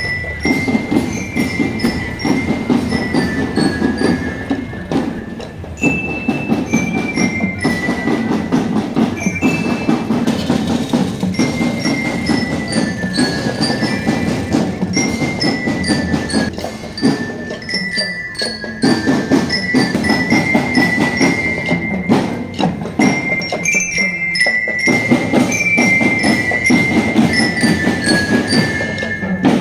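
A marching drum band playing: a bell-toned melody, as from a bell lyra or glockenspiel, steps up and down over continuous drumming.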